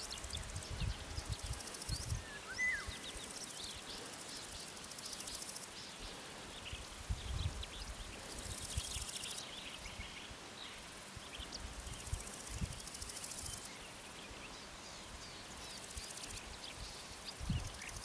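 Summer meadow ambience: insects chirring in high-pitched patches that start and stop every few seconds, with scattered short bird chirps. Low gusts of wind bump the microphone now and then.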